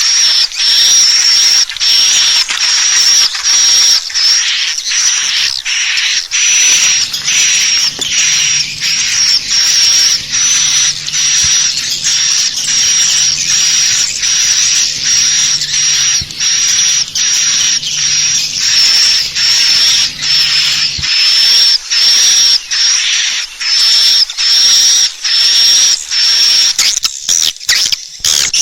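Swiftlet lure call: shrill chirping twitters repeating about twice a second, turning into a faster stutter near the end. This is the kind of calling sound played in a swiftlet house to draw swiftlets in to roost. A faint low hum sits under the calls through the middle part.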